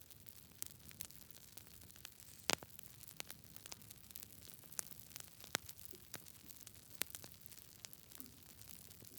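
Wood fire burning in a fireplace: a soft steady hiss with irregular sharp crackles and pops, the loudest pop about two and a half seconds in.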